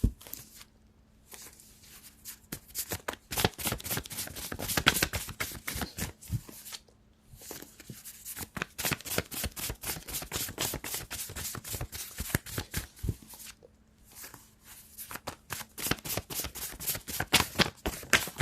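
A deck of tarot cards being shuffled by hand: rapid runs of card flicks in three spells, with short pauses about 7 and 14 seconds in.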